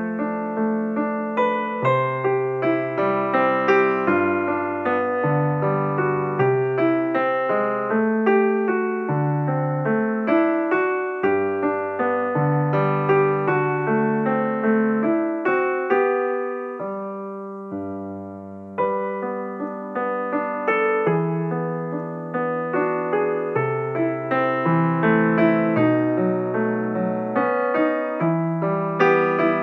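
Background piano music: a steady run of notes over a bass line. About halfway through, a chord is held and dies away before the playing resumes.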